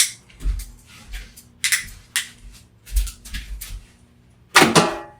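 Irregular clicks and knocks of hard plastic being worked at and forced apart, as a USB charger block or plug is broken, with a louder burst near the end.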